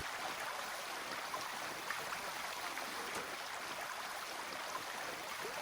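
Steady rushing of water, a even hiss with many small ticks and splashes through it.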